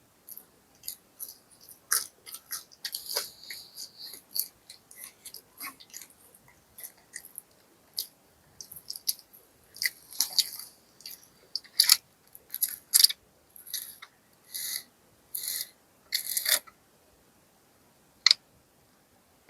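Close-miked eating sounds: a person chewing fried fast food, with crisp crunches and wet mouth clicks, settling into steady chews about once a second near the end.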